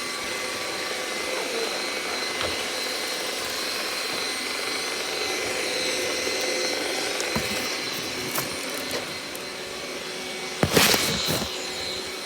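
Robot vacuum running steadily, its fan whirring with a high, even whine, with a few light knocks and a short, louder clatter near the end.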